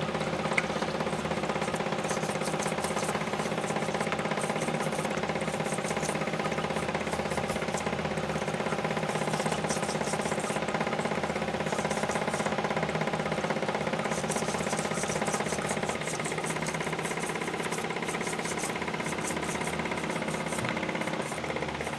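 Pump of a homemade solvent-recirculation rig running steadily, circulating cleaning solvent through a sludged engine to flush it out the oil drain. A steady mechanical hum with a fast rattle, a little quieter from about sixteen seconds in.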